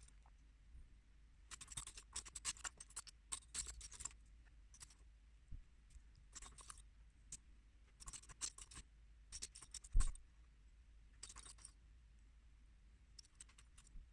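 Small plastic building bricks rattling and clicking as they are sorted and pressed together, in scattered clusters of quick clicks. About ten seconds in, a single dull knock is the loudest sound.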